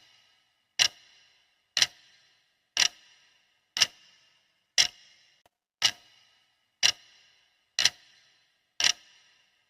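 Clock ticking, one sharp tick each second, each with a short metallic ring after it.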